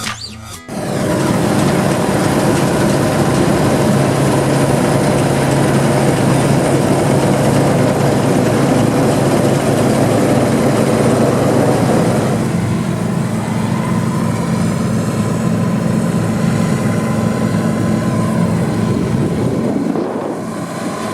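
Diesel engine of harvest machinery running steadily under load, a constant hum with a noisy wash over it. About twelve seconds in the sound turns smoother and a little quieter.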